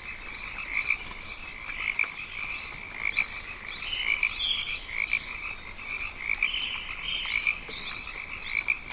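Rainforest frog chorus: many frogs calling in a dense, pulsing band of croaks, with series of short, high, rising chirps joining in from about three seconds in.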